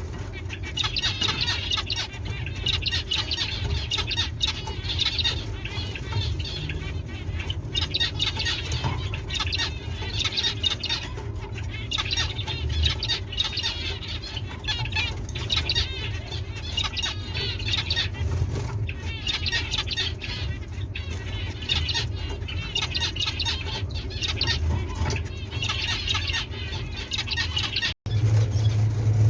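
Small cage birds chirping and chattering rapidly in repeated bouts, over a steady low hum; the sound cuts out for an instant near the end.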